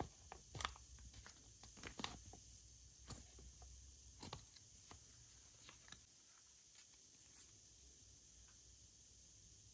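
Faint, scattered clicks and taps from hands handling items being unboxed. They are frequent for the first four seconds or so, then thin out to a few soft ticks.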